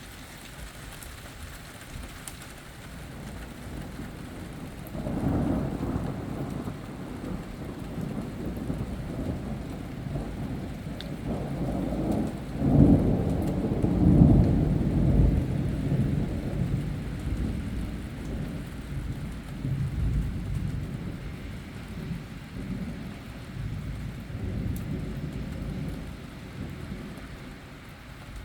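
Thunder rumbling over steady rain. The rumble swells about five seconds in, is loudest near the middle, and rolls away slowly toward the end.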